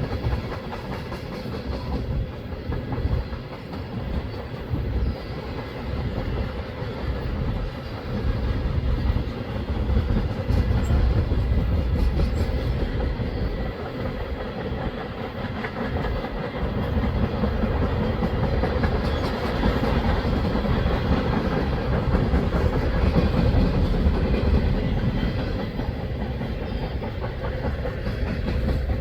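Freight train of tank cars rolling past at speed: a continuous low rumble of steel wheels on rail, with clickety-clack over the rail joints and scattered sharp squeals and clicks.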